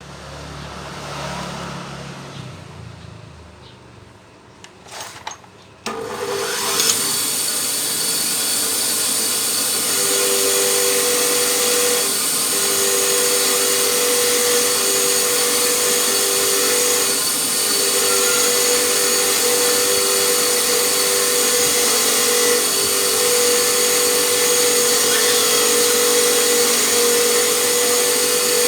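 A handheld electric power tool starts about six seconds in and runs steadily with a whine, after a few seconds of quieter handling sounds and clicks.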